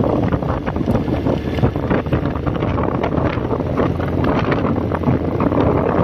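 Wind buffeting the microphone of a rider at speed on a 2005 Honda CB1300 motorcycle, with the bike's running and road noise mixed in underneath as a steady, dense rush.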